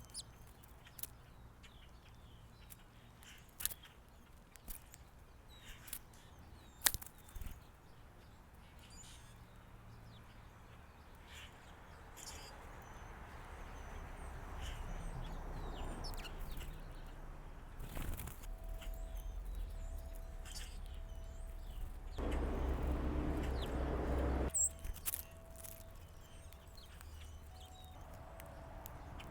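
Faint winter backyard ambience: scattered short bird chirps and sharp ticks over a low steady rumble. From about halfway a rushing noise builds, loudest for about two seconds near the end, and a faint repeating tone sounds through the last third.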